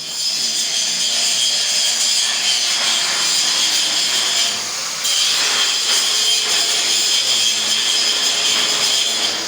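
A power tool, most likely an angle grinder, running under load on steel with a high whine, easing off briefly about four and a half seconds in and cutting back in.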